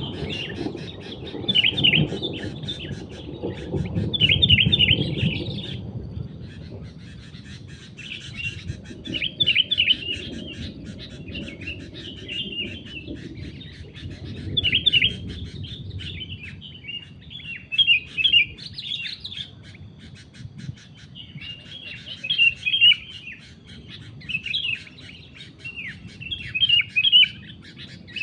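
Sooty-headed bulbuls calling: short bubbly chirping phrases repeated every second or two, over a low rumble that is stronger in the first few seconds.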